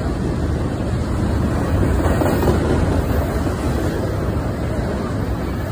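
Double-stack intermodal freight train's well cars rolling past close by: a steady rumble of steel wheels on the rails, with no locomotive in it.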